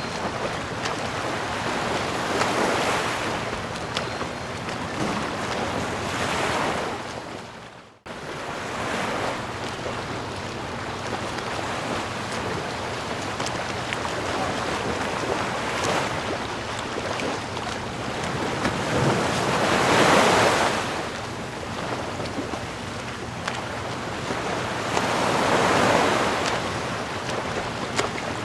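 Ocean waves washing onto the shore, each swell rising and falling every few seconds, loudest about twenty seconds in. About eight seconds in the sound fades almost to silence and then starts again abruptly, like a loop point in the recording.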